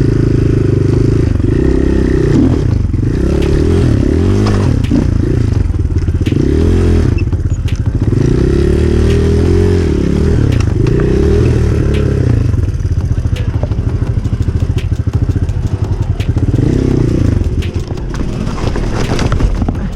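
Enduro dirt bike engine revving up and down over and over under riding load, with scattered clicks and clatter throughout.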